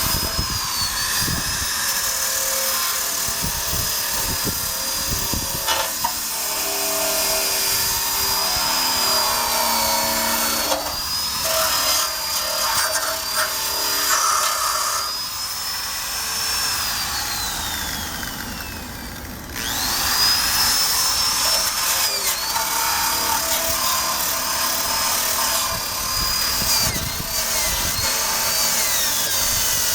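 A power drill spinning a wire brush against the steel undercarriage of a 1965 Honda Cub: a steady high motor whine over harsh scraping. About halfway through, the motor winds down with a falling whine, then spins back up a few seconds later and keeps brushing.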